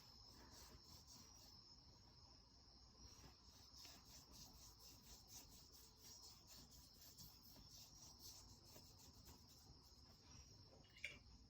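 Near silence: faint room tone with a steady high-pitched whine and faint soft ticking.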